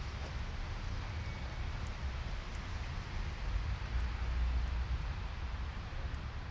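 City street ambience: a steady hiss with a low rumble of passing traffic, which swells a little past the middle.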